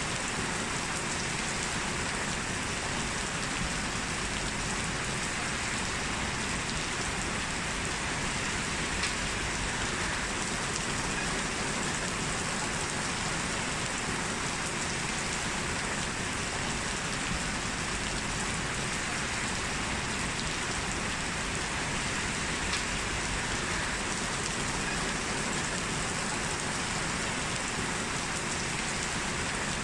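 Heavy rain falling steadily as an even wash of drops, with a couple of sharper single drop hits.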